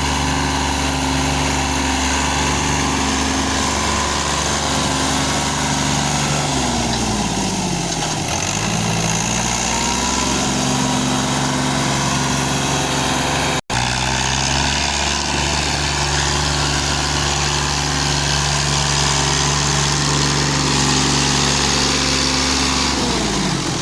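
Fiat 480 tractor's three-cylinder diesel engine running steadily under load. Its speed dips about seven seconds in and recovers a couple of seconds later as the load pulls it down, then drops away again near the end, with a brief break in the sound just after the middle.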